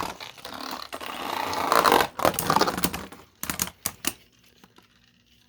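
Two Beyblade spinning tops, one 3D-printed, clashing in a plastic stadium: a building whir and a run of sharp plastic clacks as they hit. A few more scattered clacks follow, and it goes quiet for the last second.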